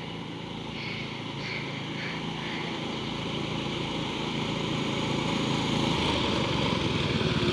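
Small single-cylinder engine of a mini bike riding past, its steady buzz growing louder as it draws closer.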